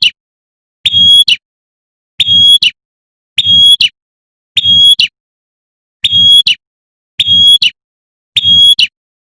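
Female prenjak (prinia) giving its repeated sharp 'tembakan' call, the female's call to a male: a short, loud, buzzy note held on one pitch, repeated about eight times at a steady pace of roughly one every second and a quarter.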